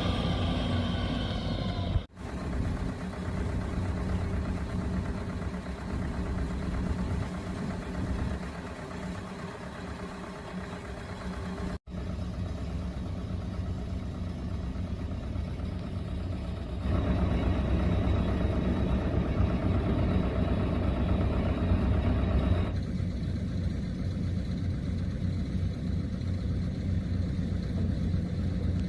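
Rice combine harvester running, a steady engine drone under broad machinery noise. The sound cuts out for an instant twice, and it grows louder for several seconds past the middle.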